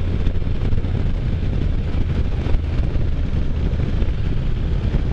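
Can-Am Spyder F3's three-cylinder Rotax engine running steadily while riding, under wind rushing over the microphone.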